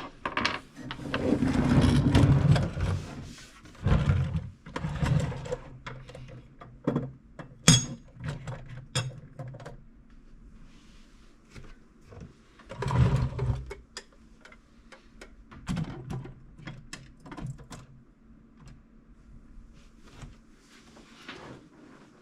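Metal tool boxes being moved across a shop floor: rumbling stretches in the first few seconds and again around thirteen seconds in, with scattered knocks and rattles between them.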